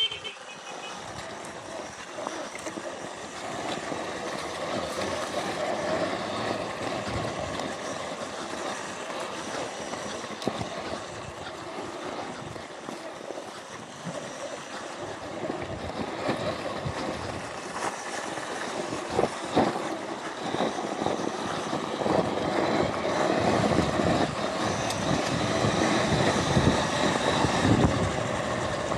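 Electric off-road motorbike ridden along a rough dirt trail: a faint motor whine under the rumble and rattle of tyres, chain and suspension over the ground, with a few sharp knocks about two-thirds of the way through. It grows louder toward the end.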